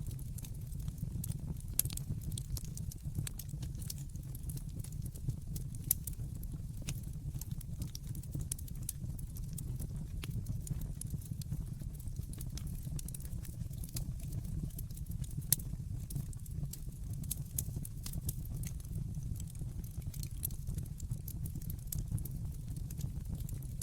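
Wood fire burning in a fireplace: a steady low rumble of the flames with constant irregular crackling and snapping, and a couple of louder pops, one about six seconds in and one past the middle.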